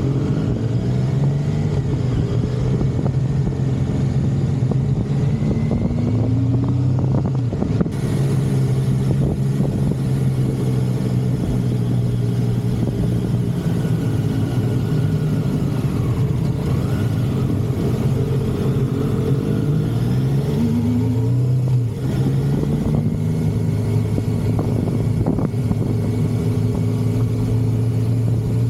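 Motorcycle engine running on the road, its pitch rising a few times as it accelerates, near the start, around five seconds in and again past twenty seconds, over a steady rushing noise.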